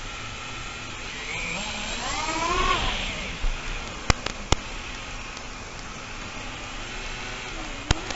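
FPV quadcopter's electric motors and propellers whirring, the pitch rising sharply with throttle about two seconds in, then settling; a few sharp clicks midway and near the end.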